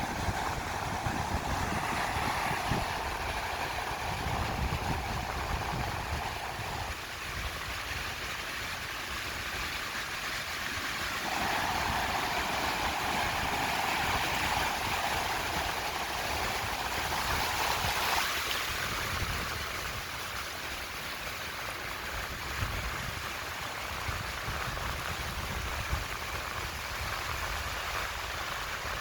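Sea surf washing steadily onto a beach, with a low rumble that rises and falls.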